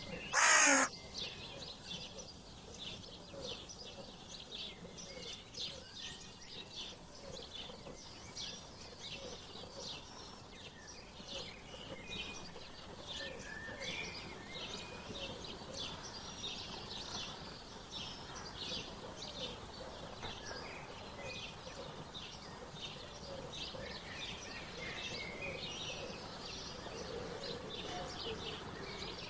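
A crow caws once at the very start, then small birds chirp continuously, many short high notes, with a low repeated call underneath.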